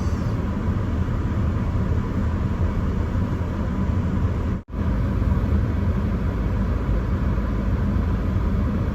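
Steady low noise inside a car's cabin while it drives through a blizzard: engine, tyres, wind and heater fan blended together. It cuts out for an instant about halfway through.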